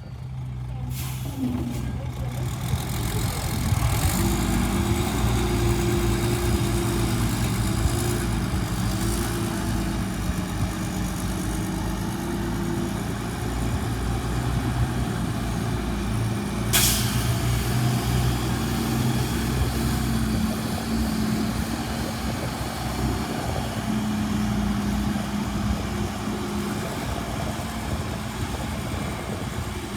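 Diesel engine of a Hyundai heavy earthmoving machine running continuously, working harder from about three seconds in, its pitch shifting now and then. A brief sharp sound cuts through about 17 seconds in.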